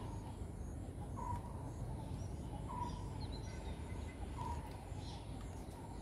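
Outdoor ambience: a steady low rumble with faint bird chirps, three short calls spaced about a second and a half apart and a few thinner, higher chirps between them.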